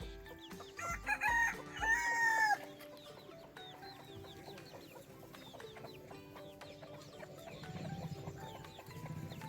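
Rooster crowing once, about a second in, a long call that rises, holds and drops off at the end, over background music with steady notes.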